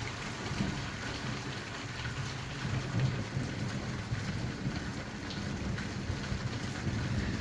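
Rain falling steadily during a thunderstorm, with a low rumble of thunder that swells about three seconds in.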